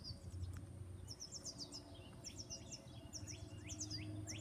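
Songbirds calling in the trees: quick clusters of short, high chirps repeating every second or so, joined about halfway through by a run of short downward-sweeping calls.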